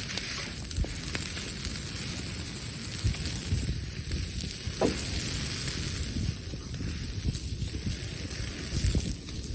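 Wood campfire crackling and hissing, with scattered small pops.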